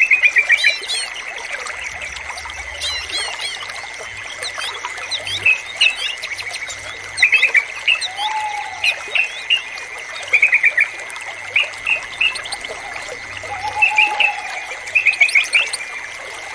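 Yellow-vented bulbul (trucukan) singing in short bursts of quick bubbly notes every second or two, with other small birds chirping higher and two lower slurred whistles. Trickling water and a steady faint high tone run underneath.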